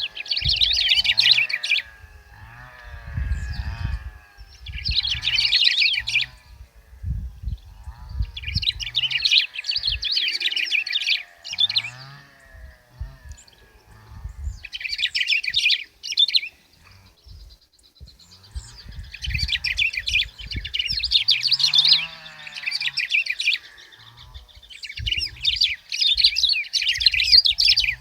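Black-throated grosbeak (bico-de-pimenta) singing in about six bouts of rapid, high song, each one to three seconds long with short pauses between. Intermittent low rumbling sits underneath.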